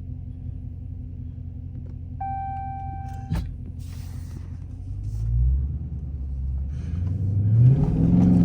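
Dodge Scat Pack's 6.4-litre HEMI V8 idling steadily, with a brief dashboard chime and a click a little after two seconds in. The engine then speeds up twice, its pitch rising, the second time louder near the end.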